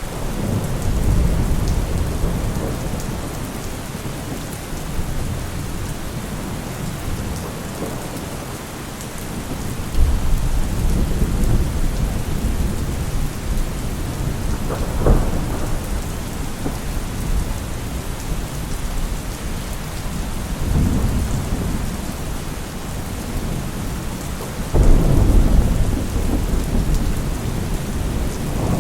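Heavy rain falling steadily, with repeated rolls of thunder: deep rumbles swelling at the start, about a third of the way in and again near the end, and a sharper crack about halfway through.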